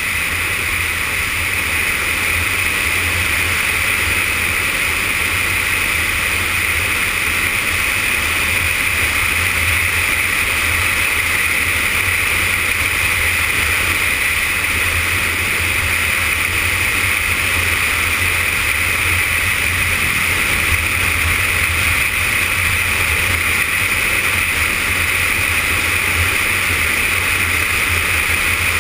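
Yamaha FZS600 Fazer inline-four engine running steadily at cruising speed, mixed with steady wind rush on the camera microphone.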